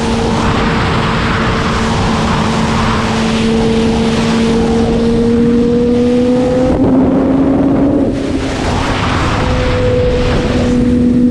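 Sport motorcycle engine running at steady high revs under a rush of wind noise. The engine note climbs slowly, eases briefly about eight seconds in, then holds steady again.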